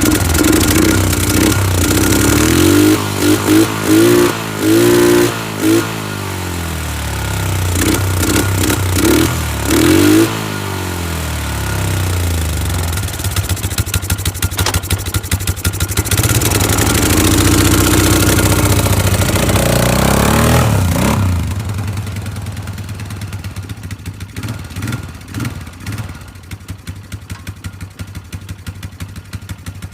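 Polaris 500 HO ATV's single-cylinder four-stroke engine running and being revved up and down several times, then dropping back at about two-thirds of the way to a quieter, pulsing idle. The engine runs but needs its really nasty old fuel drained and its carburettor cleaned.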